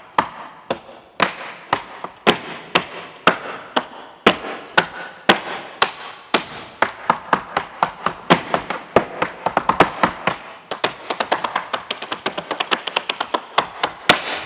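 Tap shoes, each with a metal tap on a wooden build-up at heel and toe, striking the floor in a tap-dance rhythm. The taps start about two a second and speed up into rapid runs in the second half, ending on a loud single tap.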